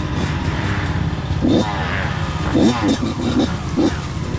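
Dirt bike engines revving, the pitch rising and falling several times over a steady low rumble.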